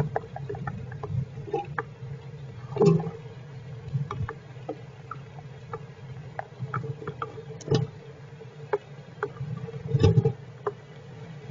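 Heavy rain pattering on the shelter as scattered irregular taps, with a few louder knocks about three, eight and ten seconds in, over a steady low hum.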